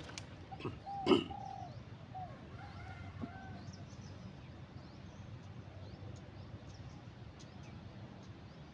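Birds calling: a few short, arched, coo-like notes, then scattered faint high chirps over a steady low background. A single sharp click about a second in is the loudest sound.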